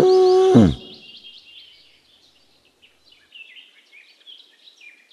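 Chicks peeping: scattered short, high cheeps. A loud low animal call falls in pitch and breaks off under a second in, before the peeping.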